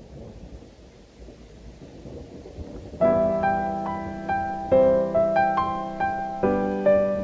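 A faint low rumble of rain and thunder ambience, then solo piano comes in about three seconds in, playing slow struck notes over a held bass note, about two notes a second.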